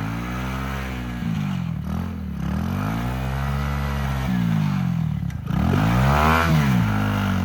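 Small single-cylinder four-stroke 110cc pit bike engine revving hard on a steep, slippery hill climb. The revs rise and fall several times as the rider holds it pinned for traction, and it is loudest about six seconds in.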